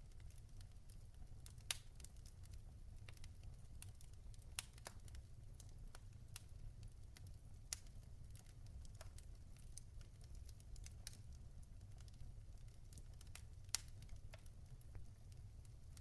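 Faint crackling of burning logs in a fireplace: irregular sharp pops and snaps, four of them louder, over a low steady rumble of the fire.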